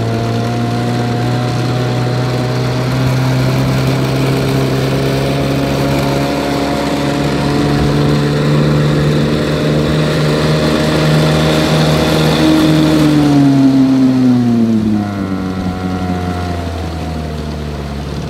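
1971 Johnson 9.5 hp two-stroke twin outboard motor running steadily at speed, pushing a small boat along. About thirteen seconds in the throttle is eased back and the engine note falls and gets quieter.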